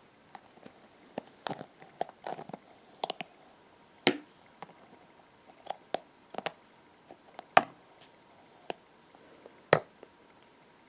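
Hairbrush handled close to the microphone: about a dozen sharp, irregular clicks and taps, some in quick pairs, over faint crackling.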